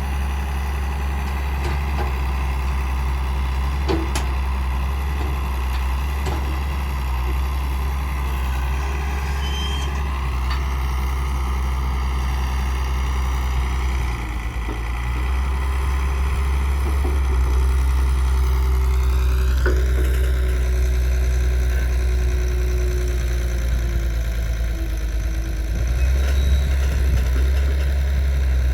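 Heavy diesel engines of a tractor and JCB loader running steadily with a deep rumble. One engine speeds up about two-thirds of the way through, and there are a few short knocks.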